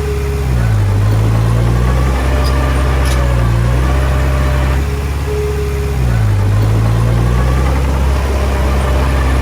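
Komatsu D20P bulldozer's diesel engine running, its pitch dipping and then climbing back twice, about five seconds apart, as it takes and sheds load while pushing soil.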